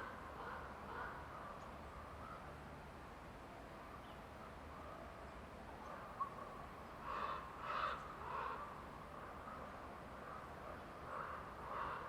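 Forest ambience with a bird giving short repeated calls: a run of three about seven seconds in, and more near the end. A single sharp click a little past halfway.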